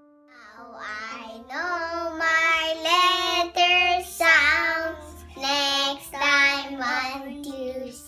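A child's voice singing a short song over a light music backing, the sung notes gliding and breaking into syllables.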